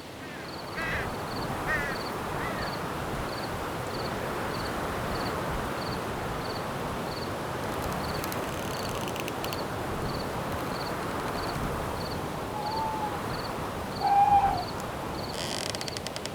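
Night forest ambience: a steady rush of wind through the trees, with a cricket chirping about twice a second. A crow caws faintly at the start and again about 13 seconds in, then louder about 14 seconds in, and a dense insect trill rises near the end.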